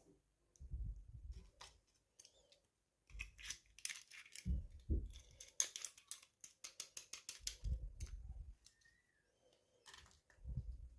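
Hands handling small plastic toy pieces and packaging: scattered clicks, taps and low bumps, with a quick run of sharp clicks in the middle.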